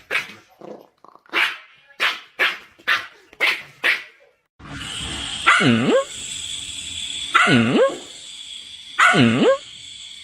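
A dog barking: a quick run of short barks, then, over a steady hiss, three longer barks about two seconds apart, each dipping low and rising again in pitch.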